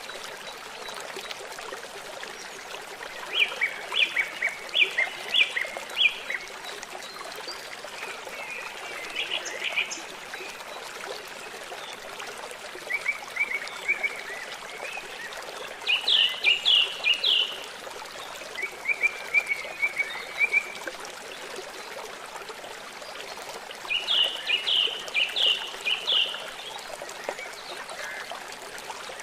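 Songbirds singing short phrases of rapid repeated chirps, six or seven phrases spaced a few seconds apart, over a steady rush of running water.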